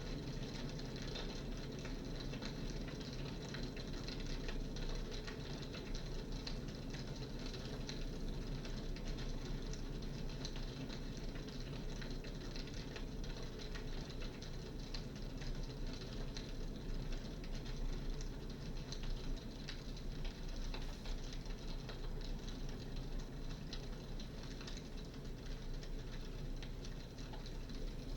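Crackling log fire from a digital fireplace's sound effect: a steady low rush of flames with many small irregular pops and snaps throughout.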